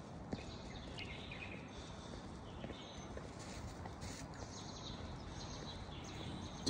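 Low, steady background noise with faint, scattered bird chirps.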